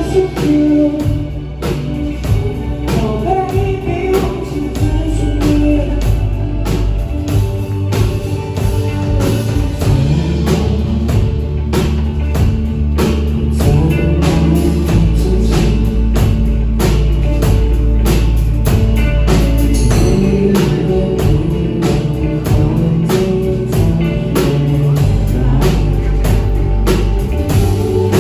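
Live band playing a song at a sound check, with a singer over drum kit, guitar and bass.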